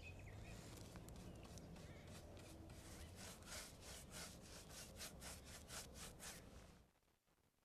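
Faint rhythmic rubbing strokes, about three a second, like sawing or rasping, that stop abruptly near the end.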